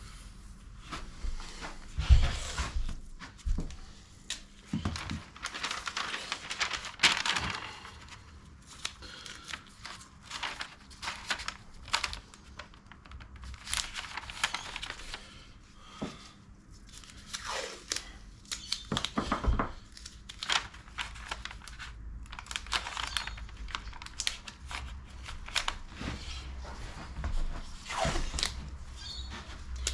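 Irregular crinkling and tearing of material being handled by hand, with a few dull knocks.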